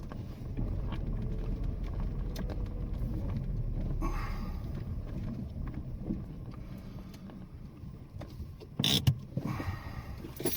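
Car moving slowly, heard from inside the cabin: a steady low engine and road rumble that eases off after about six seconds as it slows. A few sharp clicks or knocks near the end.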